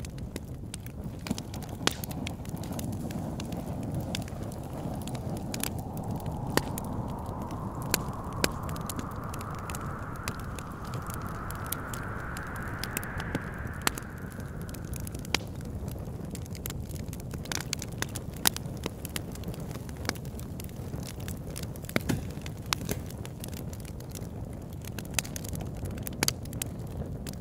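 Fire crackling with frequent sharp pops over a steady low rumble of wind. Partway through, the wind whistles, rising slowly in pitch for about ten seconds before fading out.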